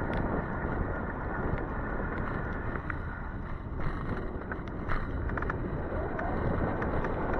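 Steady rushing wind and road noise from riding an e-bike in the rain, with a few faint clicks around the middle.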